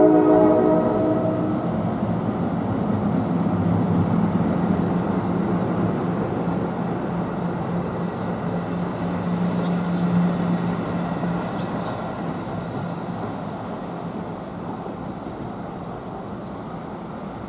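A train horn ends about a second and a half in, then the train rumbles past on the rails with a steady low hum, fading gradually as it moves away, with a few faint high wheel squeals.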